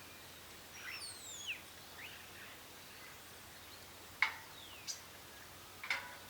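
Birds calling over a steady faint hiss: a few falling whistled notes, then sharp chips, the loudest about four seconds in and another near the end.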